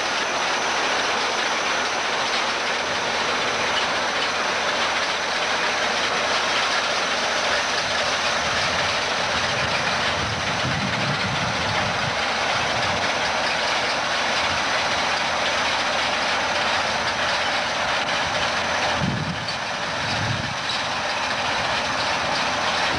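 John Deere 4010 tractor running under load while pulling a potato harvester, with a steady mechanical rattle and clatter. A few deeper thuds come through around the middle and near the end.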